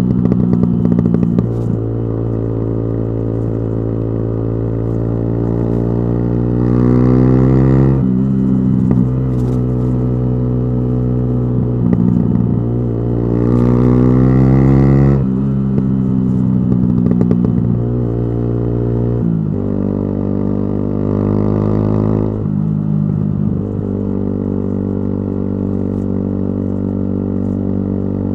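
Yamaha YZF-R125 single-cylinder four-stroke engine through a modified exhaust, accelerating with its note rising steadily, dropping sharply at each upshift about a third and halfway in. In the last part it changes pitch twice more and settles into a steady cruising note.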